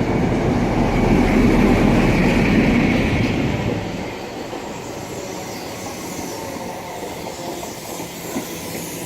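Class 43 HST's coaches rolling along the platform as the train slows to a stop, wheels clacking on the rails. Loudest for the first three or four seconds, then easing to a steadier, quieter run.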